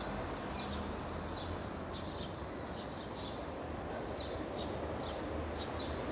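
Small birds chirping: short, high, falling notes, several a second, over a steady low background rumble.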